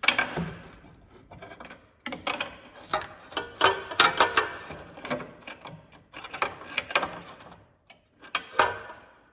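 Steel pry bar working a lower control arm loose from the subframe: irregular metal clicks, knocks and scrapes, with a sharp knock at the very start and busy clusters through the middle.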